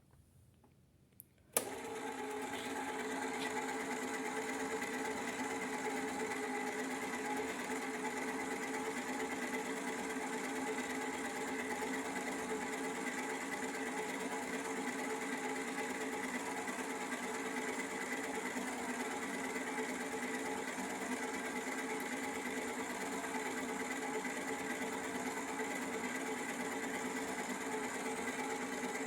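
The small electric motor of a Mandy Piko toy washing machine switches on with a click about a second and a half in, then runs with a steady hum.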